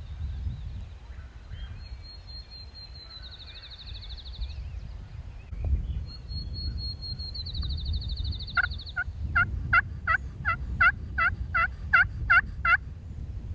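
Wind rumbling on the microphone while a songbird gives a high trill twice, then a run of about fourteen evenly spaced turkey yelps, roughly three a second, the loudest sound here.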